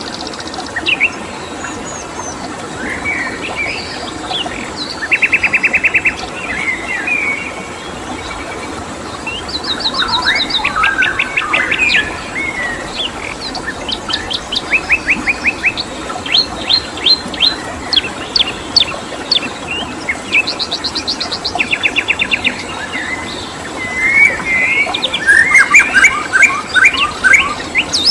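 Several songbirds singing and chirping, with repeated fast trills of rapid identical notes and short whistled phrases, over a steady background hiss.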